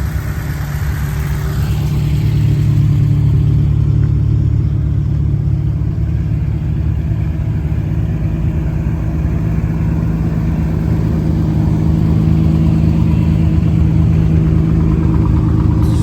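Car engine running steadily at low revs, a low drone that gets louder about two seconds in and then holds.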